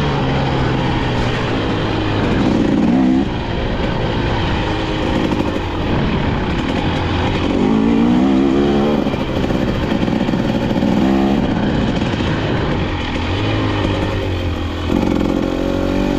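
KTM 250XC-W's two-stroke single-cylinder engine running under riding load, its revs rising and falling as the throttle is worked, with several sharp rises, about 3, 8, 11 and 15 seconds in.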